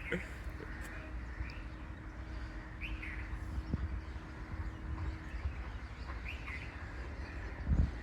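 Birds chirping, a few short calls spaced a few seconds apart, over a steady low rumble, with a dull thump near the end.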